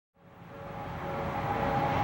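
Odakyu electric train running on the line, a steady rumble with a faint whine, growing louder through the first second or so.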